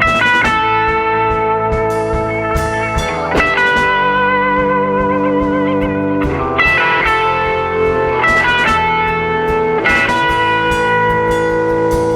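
Live band playing an instrumental passage: electric guitar chords ring and waver in pitch, changing about every three seconds, over sharp repeated strokes.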